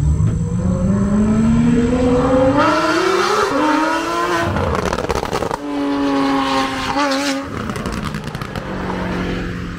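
Performance car engine accelerating hard: its note climbs steadily in pitch for about four seconds, breaks off briefly about five seconds in, then carries on at a steadier pitch and sinks lower toward the end.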